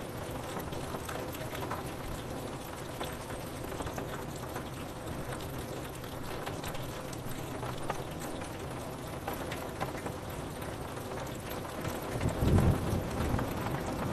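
Rain pattering steadily on window glass, a constant hiss dotted with small drop taps. About twelve seconds in, a low thunder rumble swells for a second or so.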